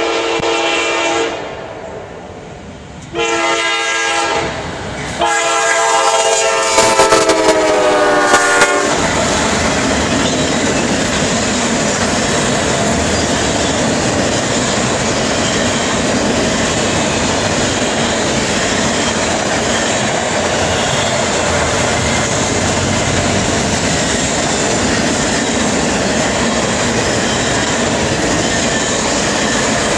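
A CSX diesel freight locomotive sounds its multi-tone air horn in three blasts for the grade crossing, the last and loudest dropping in pitch as the locomotive passes. The horn stops about nine seconds in, and the freight cars roll by with a steady rumble and clatter of wheels on the rails.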